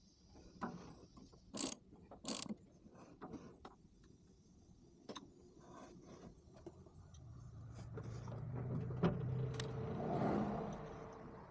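Socket wrench and metal tools clicking and clinking as nuts on the Volkswagen Beetle engine are checked. Then a low steady hum swells over a few seconds.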